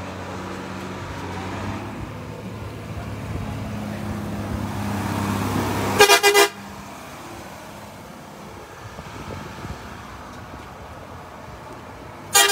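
A motor vehicle's engine running and growing louder, then a quick series of about three horn toots about six seconds in, after which the engine sound falls away. Another short horn toot comes right at the end.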